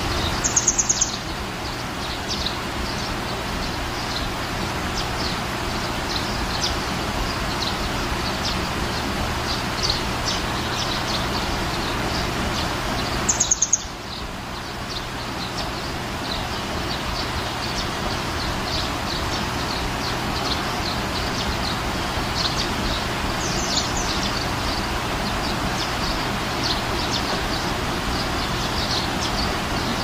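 Small birds chirping over a steady background hiss, with many short high chirps throughout and two brief, louder bursts of rapid very high twittering, about half a second in and again about thirteen seconds in.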